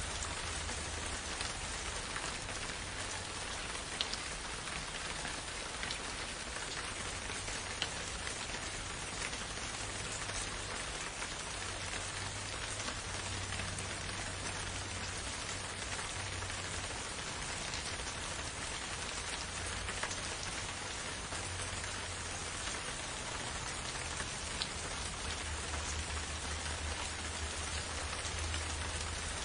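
Steady rain falling, an even hiss of many drops with occasional sharper single drop strikes, over a low rumble that swells and fades.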